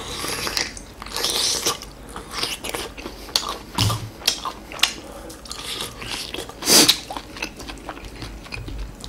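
A person biting and chewing meat close to the microphone: a dense run of short, sharp wet clicks, with louder mouth sounds about four and seven seconds in.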